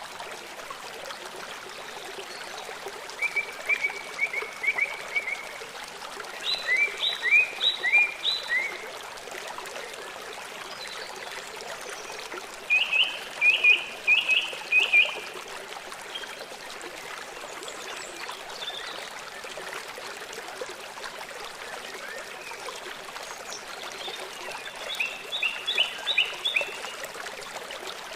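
Small songbirds singing in short phrases of quick repeated chirps, four phrases in all, over a steady rush of running water.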